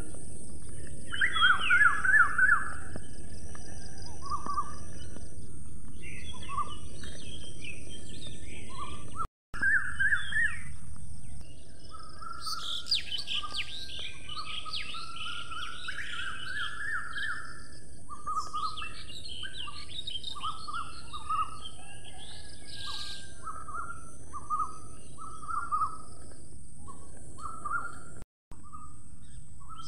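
Several songbirds singing and calling in repeated short chirping phrases, with higher trills at times, over a steady high hiss. The sound cuts out completely for a moment twice, about a third of the way in and near the end.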